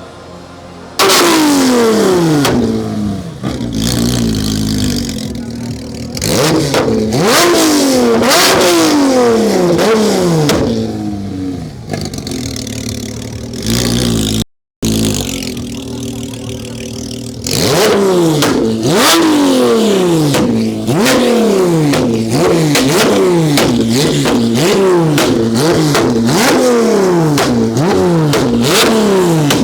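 Car engine revved again and again, about once a second, the pitch jumping up with each blip of the throttle and falling back as the revs drop, with sharp exhaust cracks among the revs.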